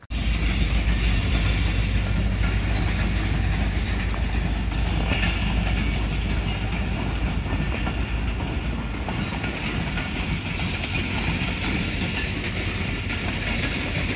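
Passenger train running past on the tracks: a steady rolling rumble that starts abruptly.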